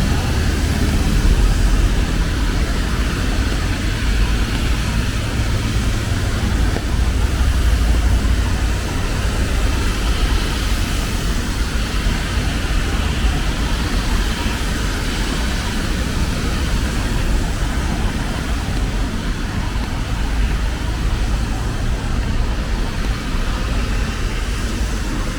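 Steady city street noise in the rain: a low traffic rumble under an even hiss of rain and wet tyres on the road.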